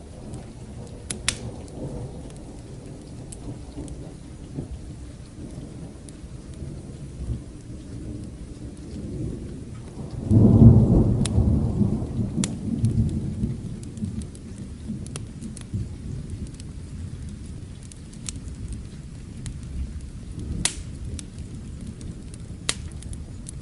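Rain falling steadily with a low thunder rumble. About ten seconds in a loud roll of thunder swells and dies away over a few seconds. Sharp crackles come now and then, typical of a wood fire.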